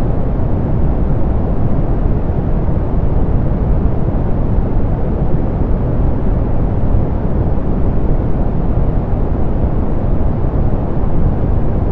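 Steady soft pink noise, a constant hiss weighted toward the low end with the highs rolled off, unchanging throughout.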